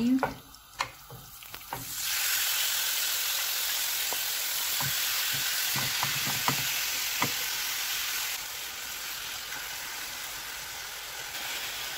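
Yogurt-marinated raw chicken pieces sizzling in a hot pan, starting suddenly about two seconds in as the mixture lands, with a spatula stirring and knocking against the pan; the sizzle eases slightly near the end.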